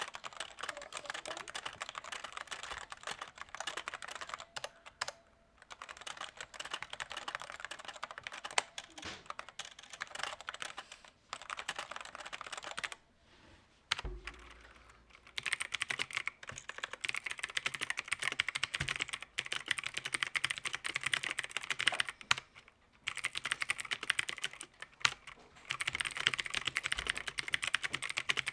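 Fast typing on a mechanical keyboard, in runs of dense key clatter broken by short pauses. About halfway through the typing stops briefly, then resumes with a brighter, sharper clatter, which fits a change of switch type.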